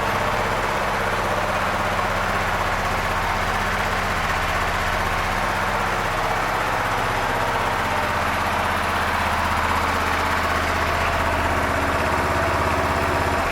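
2012 Suzuki S40 Boulevard's 650 cc single-cylinder engine idling steadily.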